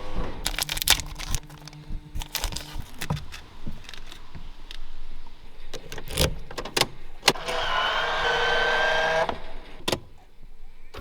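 A run of sharp clicks and knocks from controls in a Toyota Chaser's cabin. Then, for about two seconds near the end, a small electric motor runs with a whine that rises slightly in pitch, and a last click follows.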